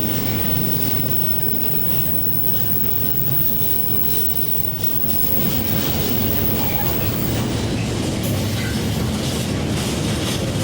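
A train running past on the rails: a steady low rumble that dips about four seconds in and then builds again.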